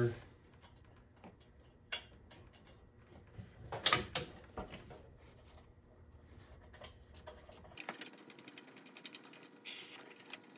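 Small metal clinks and clicks of bolts, washers and nuts being handled and fitted to the oil cooler's U-bolt mount, with the loudest cluster about four seconds in. Near the end comes a run of fine, rapid clicking like a ratchet wrench running a nut down.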